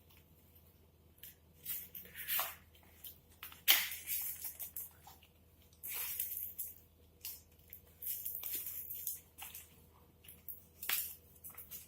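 Adhesive tape being pulled off the roll and torn, with the foam parts handled between pulls: a series of rasping, hissing strips, the sharpest a little under four seconds in and longer pulls around six and eight seconds in.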